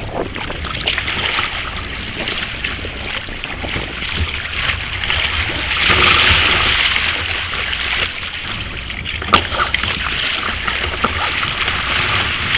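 Water splashing and rushing around a kayak being paddled, with wind rumbling on the microphone. The water swells loudest for a couple of seconds around the middle, and there is a sharp knock about nine seconds in.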